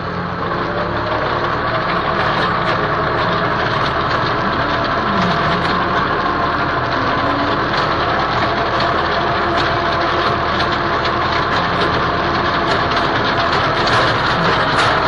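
Tractor engine running steadily under load while driving a rotary tiller, a dense mechanical clatter with a steady hum.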